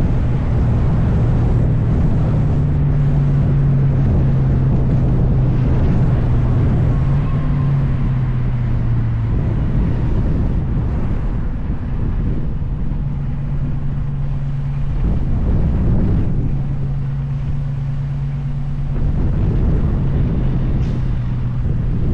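A vehicle engine runs at a steady drone while driving, over continuous road and wind noise. Its pitch shifts down and back up a few times.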